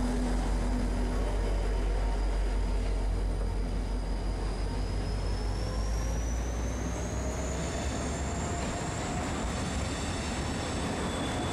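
G-class diesel-electric freight locomotive G541 passing close by, its deep engine rumble dropping away about six seconds in as loaded container wagons roll past with steady wheel and rail noise. A faint high whine rises in pitch around the middle.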